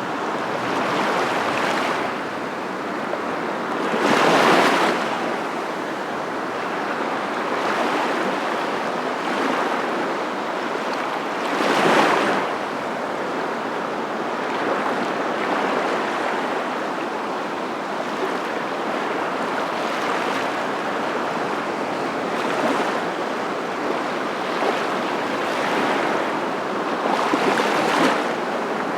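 A steady rushing noise, swelling louder about four seconds in, again about twelve seconds in, and near the end.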